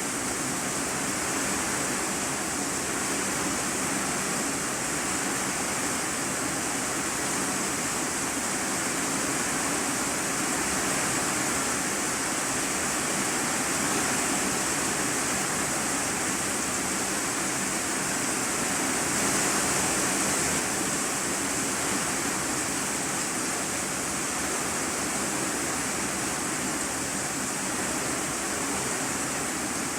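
Heavy rain falling on an iron-sheet roof, heard from inside the room beneath: a steady, dense hiss that swells slightly about two-thirds of the way through.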